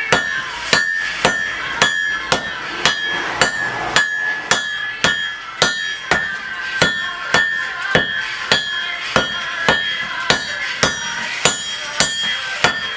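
Hand hammer striking hot bog iron on an anvil in a steady rhythm of about two blows a second, each blow ringing, as a bloom is forged and refined.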